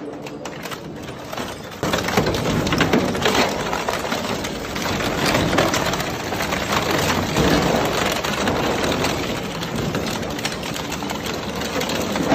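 Crusher/shredder machine running, with a dense clatter of cracking and crunching as material is broken up; it gets louder about two seconds in.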